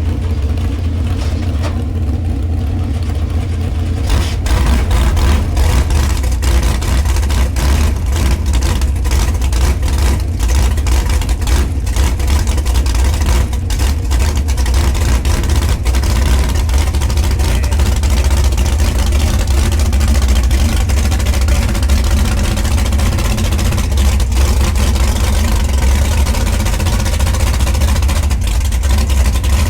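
Vehicle engine running with a deep, steady low rumble. About four seconds in it grows louder, with a rushing, rattling noise added over it.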